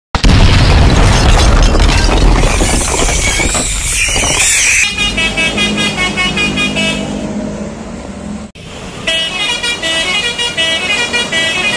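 Multi-tone bus 'telolet' horn (Basuri type) playing short stepped melodies, once about five seconds in and again near the end. Before it, a loud noisy stretch with a deep rumble fills the first few seconds.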